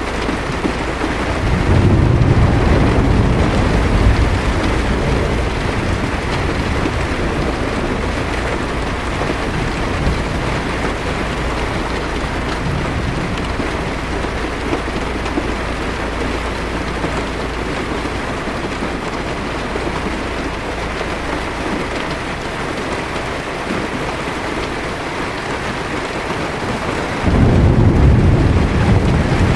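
Heavy rain pouring steadily on a car's windshield and roof, with low thunder rumbling about two seconds in and again, starting suddenly, near the end.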